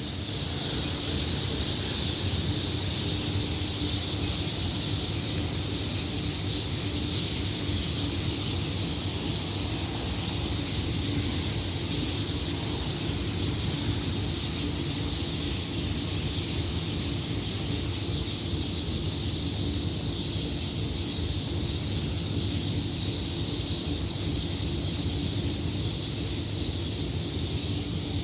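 Early-morning chorus of many birds chirping at once, blending into a steady high wash, over a low steady hum.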